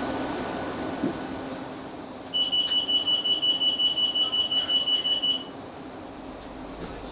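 Class 458 train's door-closing warning: a rapid, high beeping, about six or seven beeps a second, lasting about three seconds, that signals the doors are closing before departure.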